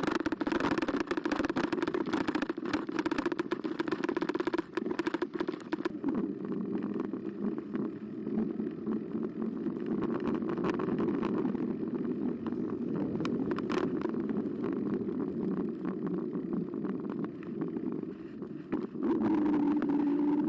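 Carbo X electric bike being ridden, heard from a camera mounted on the bike: a steady low hum of motor and tyres, with frequent clicks and knocks from the bike rattling over bumps. A higher hiss fades about six seconds in.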